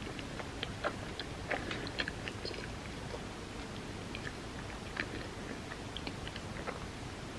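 Close-miked eating sounds of creamy rice pudding: soft, wet, irregular mouth clicks and smacks of chewing, over a steady low hiss.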